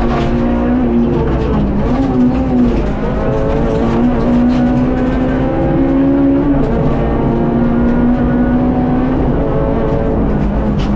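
Honda Civic Type R FN2 rally car's four-cylinder engine driven hard, heard from inside the cabin. Its pitch climbs and drops back a few times at gear changes, over a steady low road rumble.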